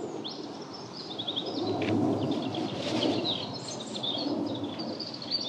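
Small birds chirping and twittering in many short high calls, over a low rushing of wind on the microphone that swells and fades.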